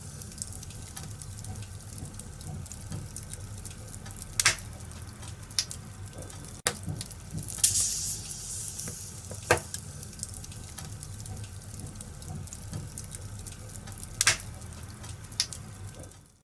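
Wood fire in a fireplace crackling: a steady hissing burn with a low rumble, broken by several sharp, louder pops.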